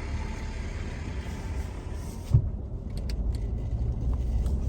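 A car's engine running with a steady low rumble heard from inside the vehicle, with one sharp thump a little over two seconds in, after which the outside hiss drops away, followed by a few faint ticks.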